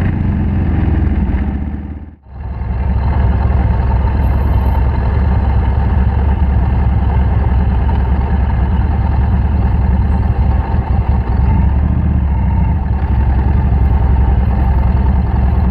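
Motorcycle engine running steadily at road speed while riding, with a brief break about two seconds in.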